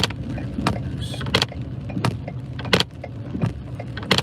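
Vehicle's turn-signal or hazard-light flasher ticking steadily, about three clicks every two seconds, over the low rumble of the vehicle running on the road.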